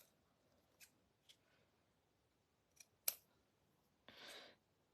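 Scissors snipping paper: a few scattered sharp snips, the loudest about three seconds in, and a short rasp of cutting about four seconds in.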